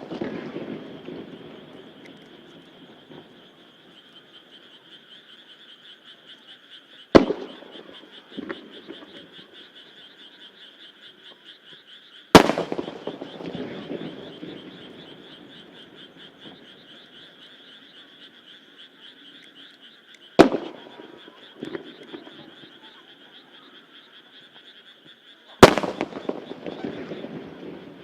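Large single aerial firework shells bursting four times, each a sharp bang followed by a rolling rumble and crackle that dies away, with smaller pops after two of them. A steady chorus of frogs croaks beneath.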